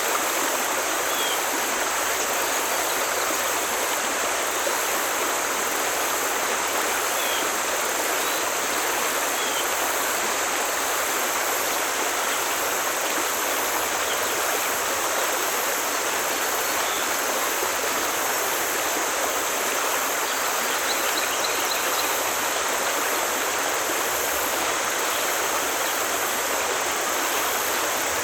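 Forest stream rushing steadily over rocks, an even wash of water noise. Faint short bird chirps sound now and then, with a quick little trill about two-thirds of the way through.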